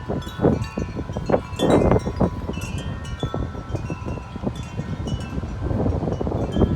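Wind chimes ringing continuously in strong, gusting wind, many tones overlapping, with wind gusts buffeting the microphone and growing stronger near the end.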